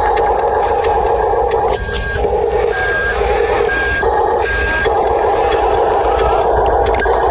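Radio-controlled model truck's electric drive motor and gears whining steadily while a reversing beeper sounds four short beeps, just under a second apart, starting about two seconds in.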